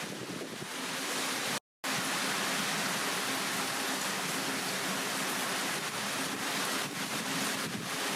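Heavy rain pouring steadily. The sound drops out completely for a moment about one and a half seconds in, then resumes.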